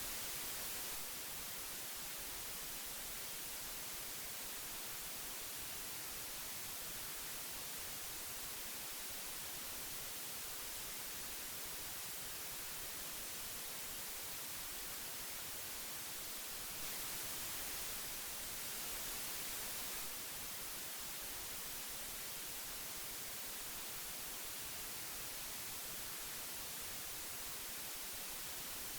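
Old analog tape hiss: a steady, even hiss weighted toward the high frequencies, swelling slightly louder for a few seconds a little past the middle.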